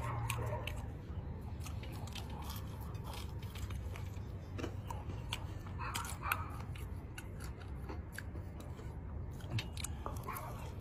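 Close-up chewing and eating of sauced chicken wings: scattered short wet clicks and smacks from mouths and fingers over a low steady rumble.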